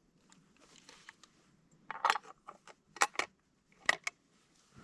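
Hard gear being handled: a run of sharp clicks and clacks, in three clusters about two, three and four seconds in, with fainter ticks before them.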